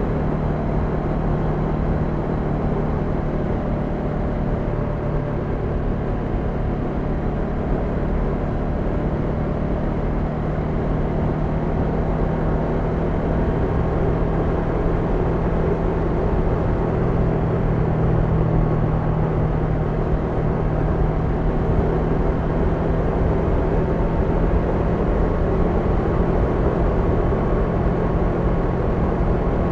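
Honda NX500's parallel-twin engine running steadily under way, its note rising a little in the middle and then holding.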